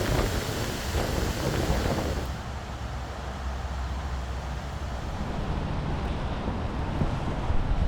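Rain hiss and wind rumbling on the microphone. A broad, bright hiss for the first two seconds cuts off abruptly, leaving a steady low wind rumble under softer rain.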